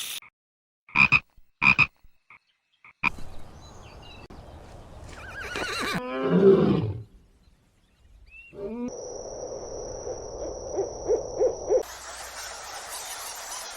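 A string of different animal calls, each clip cut off abruptly before the next: two short calls, then a loud wavering call that falls in pitch, then a run of pulsed low calls over a steady high whine.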